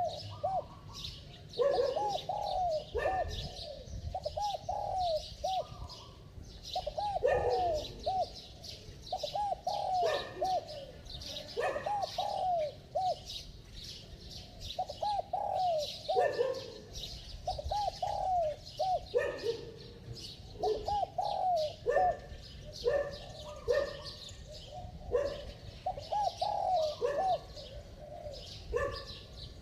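Spotted dove cooing in a clear, bell-like voice, repeating its phrase of several notes about every two seconds, with small birds chirping higher up.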